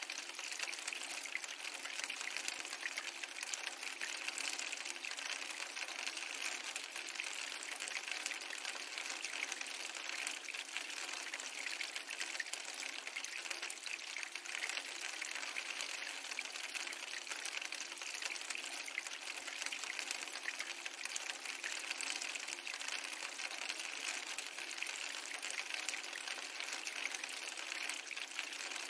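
Steady hiss of rain with fine crackles of a fireplace fire throughout, mixed as an ambient soundscape.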